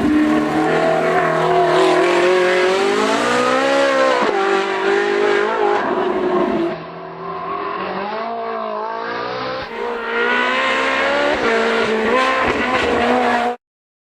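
Ferrari 458 Challenge's 4.5-litre V8 driven hard, its pitch climbing and dropping again and again through gear changes and braking. It goes quieter and duller for about three seconds mid-way, then revs up again before cutting off suddenly near the end.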